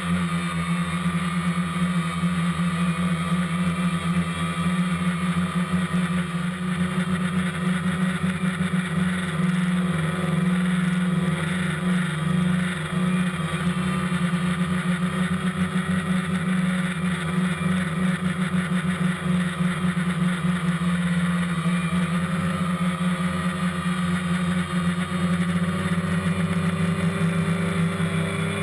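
DJI Phantom quadcopter's motors and propellers buzzing steadily in flight, heard up close from the GoPro carried on the drone, the pitch wavering slightly as the motors adjust.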